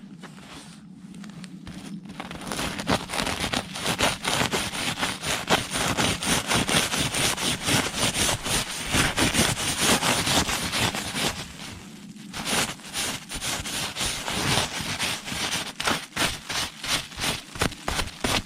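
Strong gusty wind with rain, a dense crackling rattle of buffeted fabric and drops. It swells to a loud gust about two seconds in, eases briefly past the middle, then picks up again.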